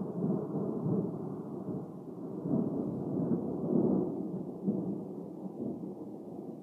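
Thunder rumbling in low rolls, swelling once more a few seconds in and then dying away.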